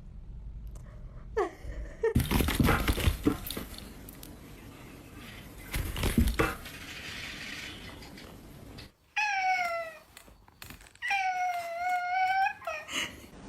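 A domestic cat meowing: a call of about a second, then a longer drawn-out meow of about a second and a half, and a short one right after it. Earlier come two bursts of rustling, clattering noise, the loudest sounds here.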